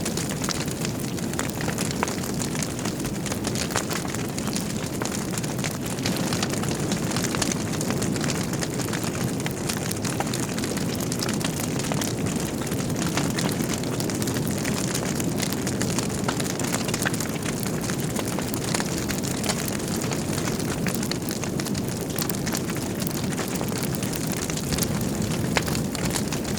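Log fire burning steadily in a fireplace: a low, continuous rush of flames with many small crackles and pops scattered throughout.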